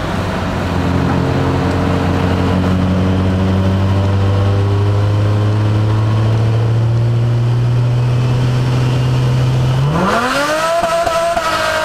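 Turbocharged 2002 Nissan Maxima's 3.5-litre V6, heard from inside the cabin, held at about 2,000 rpm against the brakes at 30 mph to build boost. About ten seconds in, the revs climb sharply as the car pulls hard, with a whine rising with the engine.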